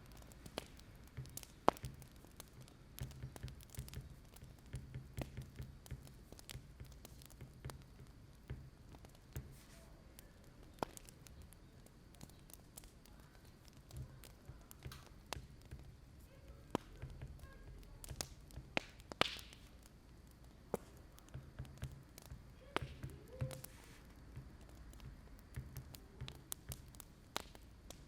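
Wood fire crackling: irregular sharp pops and clicks over a low, wavering rumble.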